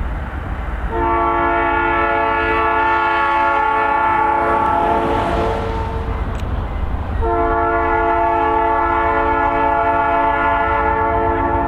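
Freight locomotive's multi-chime air horn sounding two long blasts, with the diesel engine rumbling underneath. Two long blasts is the signal that the brakes are released and the train is proceeding.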